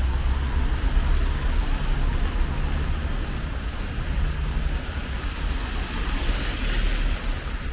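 City traffic on a rain-wet street under steady rain hiss, over a low rumble. A car's tyres swish past on the wet road about six to seven seconds in.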